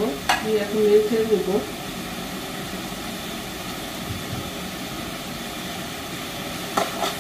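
Leafy greens sizzling as they fry in a pan, a steady hiss. A short voice is heard in the first second and a half, with a sharp click near the start and a couple more near the end.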